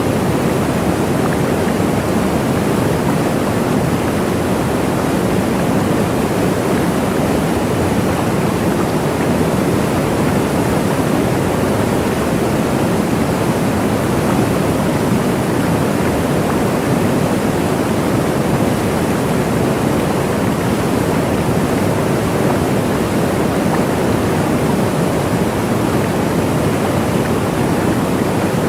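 Waterfall: a steady, unbroken rush of falling water, strongest in the lower and middle range, with no change in level.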